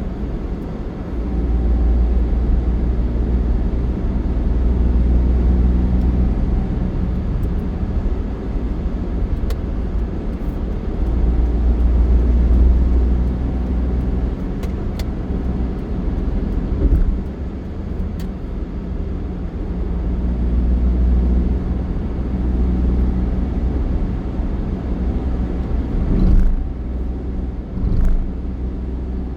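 A motor vehicle running, a continuous heavy low rumble that swells and fades several times, with a steady engine hum and a few faint clicks.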